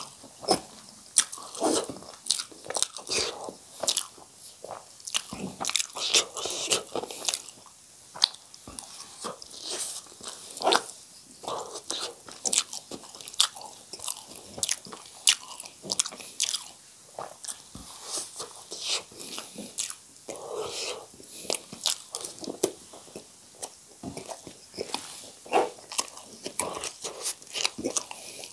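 Close-up eating sounds of a person chewing mouthfuls of spicy instant noodles, with many irregular wet smacks and clicks from the mouth.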